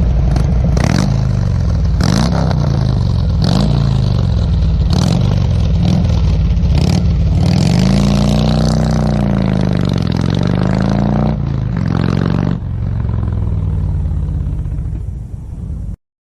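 A vehicle engine revving, its pitch rising and falling again and again, with sharp clicks throughout. It starts and stops abruptly.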